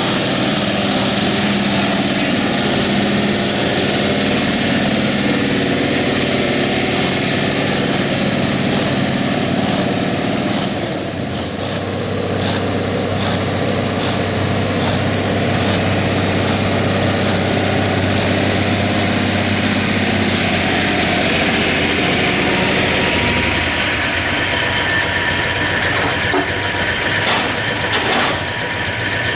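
Pulling truck's engine running steadily and loud, with a brief drop in level a little past ten seconds in.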